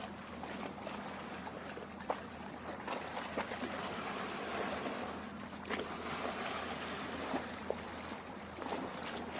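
Lake water lapping and trickling at the shore, a continuous wash broken by many small irregular splashes and drips. A faint low steady hum runs underneath.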